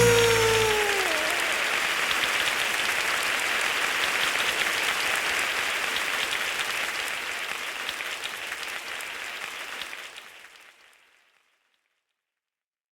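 A falling pitch glide closes out the music, then an even crackling hiss, like applause, fades out slowly and cuts to silence about eleven seconds in.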